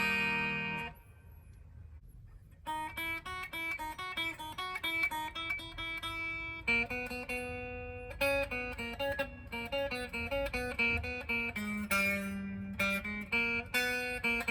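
Gibson 1958 Les Paul Standard electric guitar played through an amp on its neck pickup. A chord rings and stops about a second in; after a short pause come quickly picked single notes and arpeggios.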